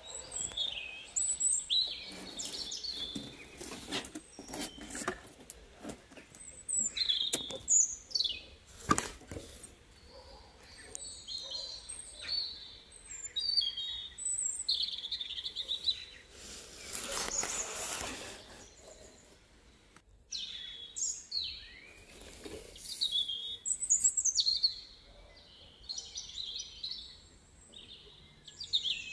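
Small birds chirping and calling in short, high, scattered phrases, with a few sharp clicks and a louder burst of noise a little past halfway.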